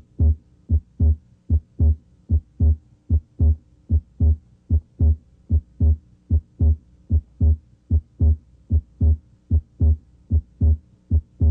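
Normal human heart sounds through a stethoscope: a steady run of paired low thumps, S1 and S2, the lub-dub of each beat, over a faint hum. The chest piece is at the left third interspace during deep breathing, where both components of S2, A2 and P2, may be heard.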